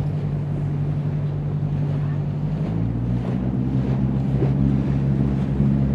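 A 38-foot cruising boat's engine running at a steady hum, its note shifting lower a little under three seconds in, with wind and water noise around it.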